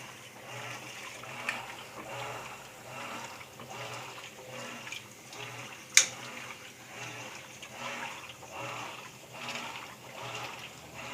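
Whirlpool 14 kg washing machine mid-wash: water sloshing back and forth in an even rhythm, with a low motor hum pulsing on each stroke, and a sharp click about six seconds in. The wash action is slow and weak, which the owner says is not normal.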